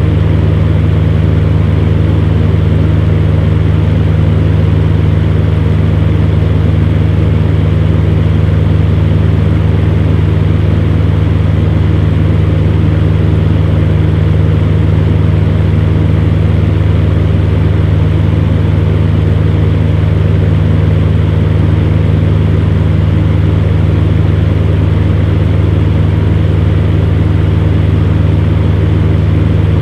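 Electric fan heater running steadily: a constant low hum from the fan motor under an even rush of blown air, unchanging throughout.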